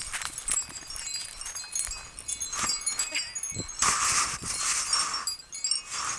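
Small metal dog collar tags jingling irregularly as the dog moves, with a louder burst of rustling about four seconds in.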